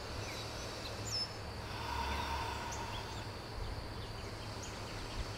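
Quiet background of small birds chirping outdoors: short high calls and a falling whistle scattered through, over a steady low hum.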